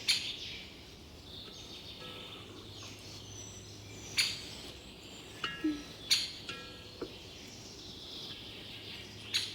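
Birds chirping in the open, broken by a few sharp clicks, some with a brief ring to them.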